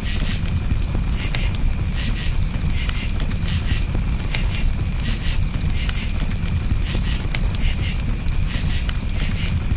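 Crickets chirping in quick repeated pulses over the steady low rumble of a campfire, with faint scattered crackles.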